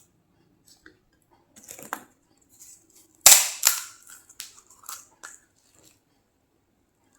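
A crisp, hollow panipuri shell cracking loudly once, followed by several smaller crisp crunches as it breaks and is chewed.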